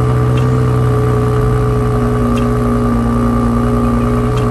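A90 Toyota Supra's engine idling steadily just after starting, heard from behind at the exhaust.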